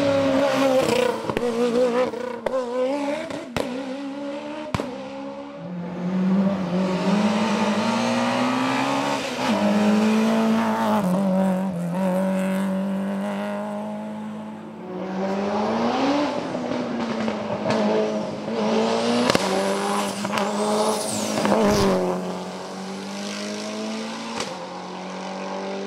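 Race car engine at full throttle, revving up and dropping in pitch again and again through gear changes, with a few sharp cracks.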